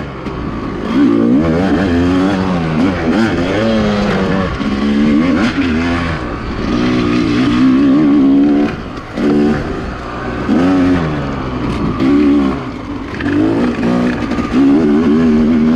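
Two-stroke dirt bike engine being ridden hard, revving up and falling back over and over as the throttle is worked, with a short let-off about nine seconds in and again about twelve seconds in.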